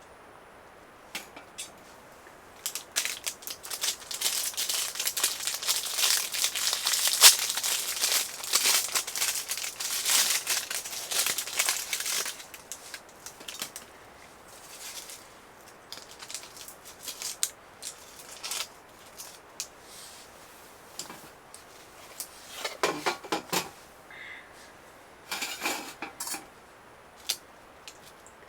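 Crinkling and rustling handling noise: a dense crackling run for several seconds, then scattered clicks and two short bursts near the end.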